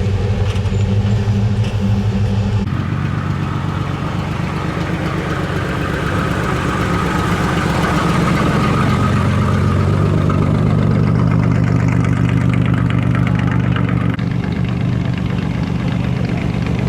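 Car engines running at low speed as cars drive slowly past; the engine note changes abruptly about three seconds in as a different car takes over, and a deeper engine note builds up again near the middle.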